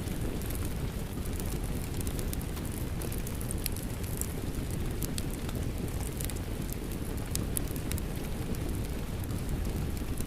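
Wood fire crackling, with frequent sharp pops scattered all through, over a steady low rush of rain.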